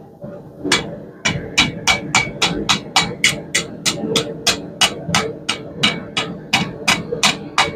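Blacksmith's hammer striking hot half-inch round steel bar on an anvil in a steady rhythm of about three ringing blows a second, beginning just under a second in: the tripod leg being cleaned up and straightened.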